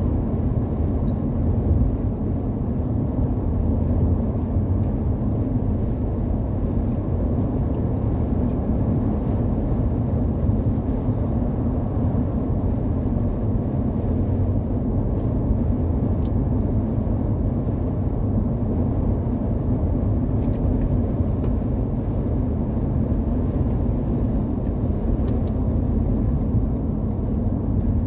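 Truck driving down the road: steady engine and road rumble with no change in pace.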